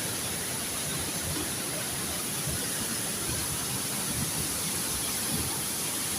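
Waterfall's steady rushing water noise, even and unbroken, with a thin steady high-pitched hiss over it.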